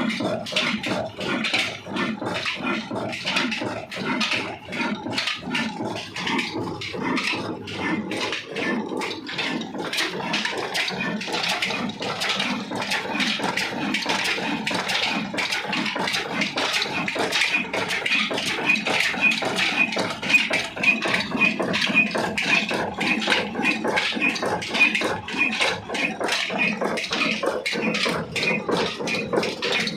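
Old slow-speed stationary diesel engine, a Ruston Hornsby type, running steadily with an even, rapid run of knocks.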